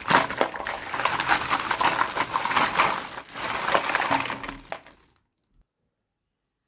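Plastic toy packaging crinkling and crackling as it is handled, in dense rapid crackles, stopping abruptly about five seconds in.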